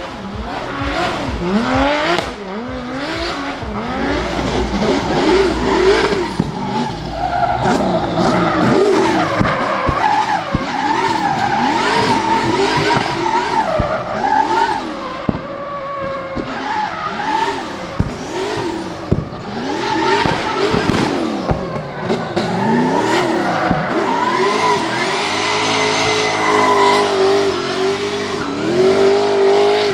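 Drift car sliding under heavy throttle: the engine revs rise and fall rapidly while the tyres squeal and shriek. Near the end the engine holds a steady high rev.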